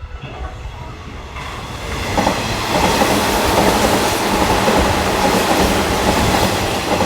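Hanshin electric commuter train running through the station, with wheels clattering on the rails and a steady electric motor whine. It builds over the first two seconds, stays loud, and begins to ease off near the end.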